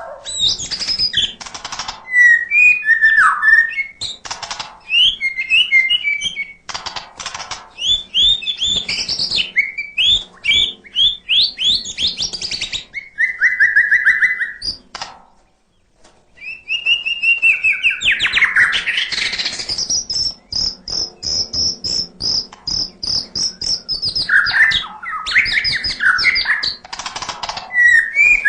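White-rumped shama (murai batu) singing a long, varied song of whistled phrases, fast trills and harsh chattering notes, mixing in mimicked calls of other birds. The song breaks off briefly about halfway through, then resumes with a run of high, repeated notes.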